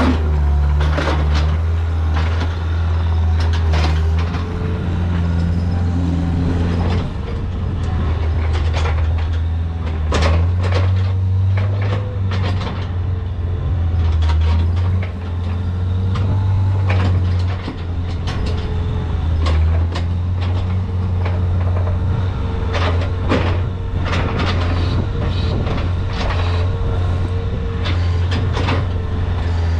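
Engine of a farm machine running steadily, its low hum shifting a little in pitch, with frequent clanks and knocks over it.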